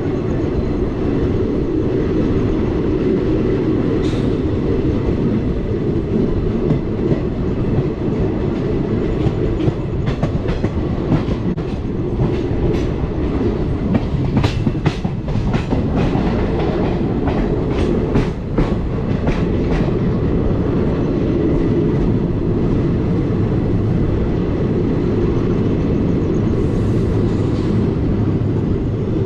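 Express train coaches running on the rails: a steady low rumble with the clickety-clack of wheels over rail joints, and a run of sharp clicks through the middle.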